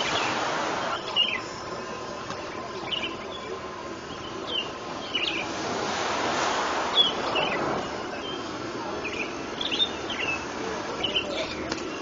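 Birds chirping in the dawn chorus: short, sharp calls that each drop quickly in pitch, one or two a second. Under them runs a rushing background noise that swells briefly near the start and again around six seconds in.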